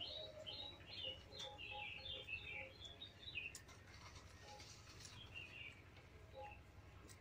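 Small birds chirping in quick runs of short, high notes, busiest in the first three seconds and thinning out after, with a few faint clicks.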